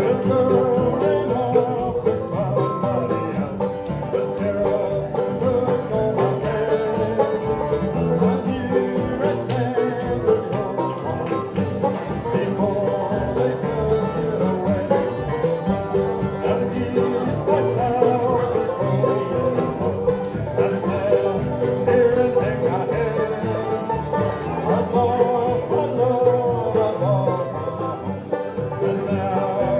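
Live bluegrass band playing a song, with banjo picking prominent.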